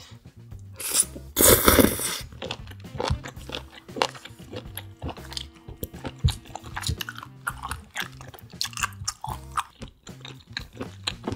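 Close-up chewing and crunching of seafood, with a loud noisy bite about a second in followed by a run of short wet mouth clicks, over soft background music.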